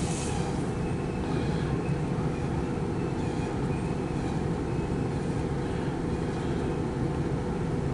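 Loaded autorack freight train rolling past, a steady rumble with a few faint high squeals.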